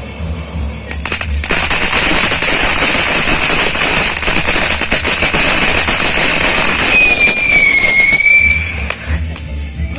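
A string of firecrackers going off in a dense, rapid crackle of pops for about eight seconds. A shrill whistle dips and rises over the popping near the end.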